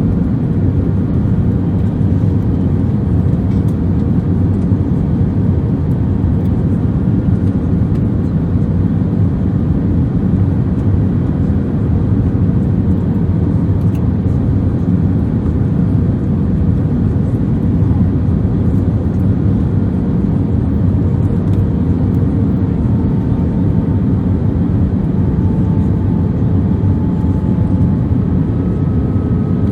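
Steady cabin drone inside an Airbus A319-131 airliner in flight: engine and airflow noise, with a faint steady hum. Fainter tones come in near the end.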